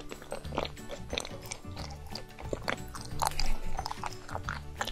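Close-miked chewing and mouth sounds from eating a chocolate-coated treat: many short clicks and smacks, over background music with steady low tones.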